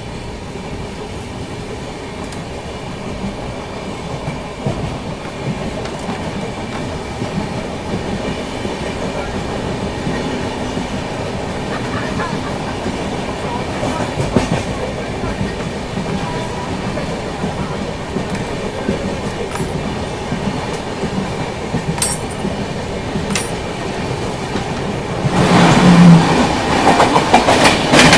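Express passenger train running on the track, heard from an open coach door: a steady rumble with wheels clicking over rail joints, slowly getting louder. About 25 seconds in, a train on the next track passes close alongside, a sudden louder rush that lasts to the end.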